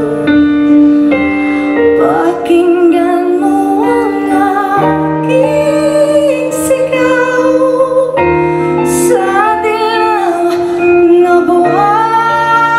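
A woman singing a slow ballad live over band accompaniment, holding long notes with vibrato.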